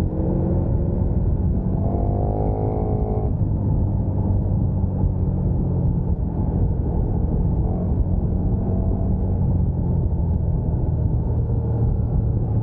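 Sport motorcycles running at speed: a heavy, steady wind and road rumble with an engine note that rises as it revs for about a second, a couple of seconds in, and shifts pitch again near the end.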